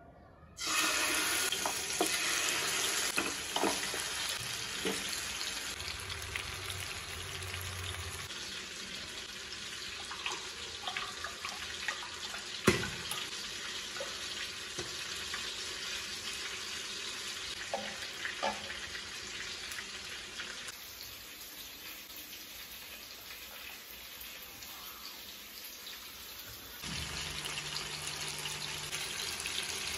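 Marinated chicken drumsticks frying in oil in a non-stick pan: an even sizzle that starts suddenly as the first drumstick goes into the hot oil about half a second in, loudest at first and then steadier. Scattered small ticks and one sharp tap a little under halfway; the sizzle grows louder again near the end.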